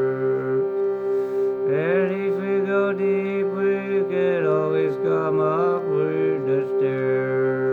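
Shruti box drone held steady on one chord. From about two seconds in, a wordless singing voice glides and bends in pitch over it, then drops out near the end, leaving the drone alone.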